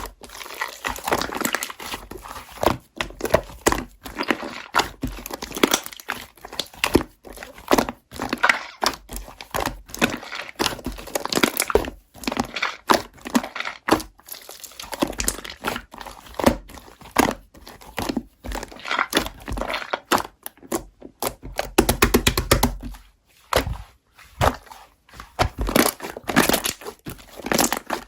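Close-up crinkling and crumpling of a crinkly material, with irregular crackles, occasional tearing sounds and soft thunks.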